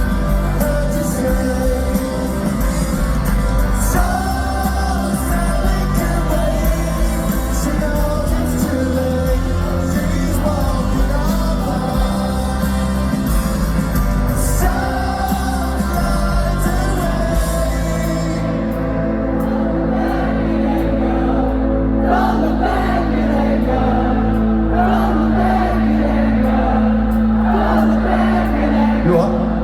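A rock band playing live with singing, heard from within a concert audience. About eighteen seconds in, the bright top of the sound drops away, leaving held chords under the voices.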